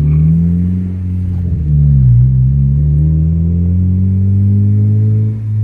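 2013 Honda Civic Si's 2.4-litre four-cylinder engine through a new Invidia N1 catback exhaust, accelerating: the drone rises in pitch, dips sharply at a gear change about two seconds in, climbs again, then falls near the end.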